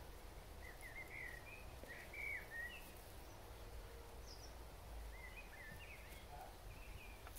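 A bird chirping in two short runs of quick, rising and falling notes, about a second in and again past the middle, over a faint low rumble.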